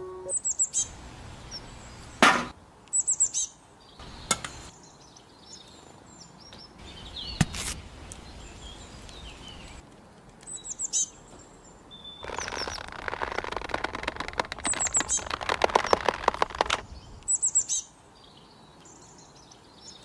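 Small birds chirping in short, high, falling calls, repeated at intervals. There are a few sharp knocks, and about twelve seconds in comes a few seconds of rapid clattering.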